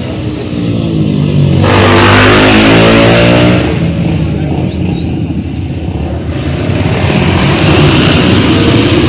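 Motor vehicle engines revving and accelerating close by, loudest twice: once about two seconds in and again near the end.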